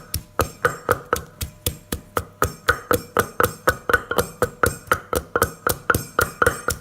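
Pestle pounding chili and garlic in a big mortar for som tam: steady knocks at about four a second, each with a short ring.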